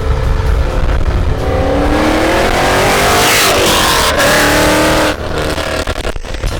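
Ford Mustang 5.0 Coyote V8 revving hard, its pitch climbing for a few seconds before it drops off suddenly about five seconds in.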